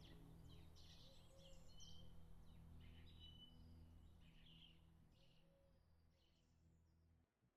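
Faint birdsong, a scatter of short chirps and trills, over a low steady hum. Both fade gradually and cut off just before the end.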